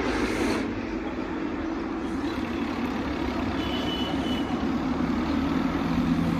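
An engine running steadily, a continuous low drone with a tone that grows stronger near the end.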